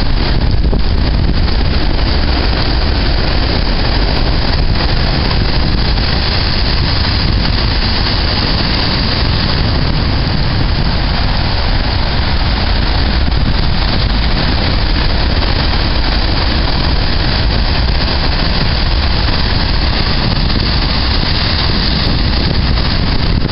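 Strong storm wind blowing across the microphone, a loud, steady rumbling roar, mixed with the surf of a nor'easter storm surge.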